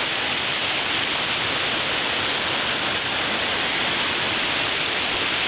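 Steady rush of running water from a rainforest stream, an even hiss with no let-up.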